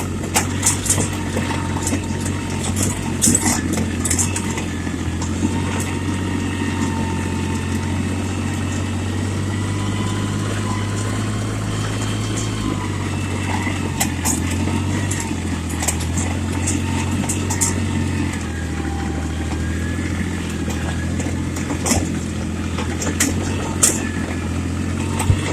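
Yanmar tractor's diesel engine running steadily under light working load, with scattered sharp clicks and rattles now and then.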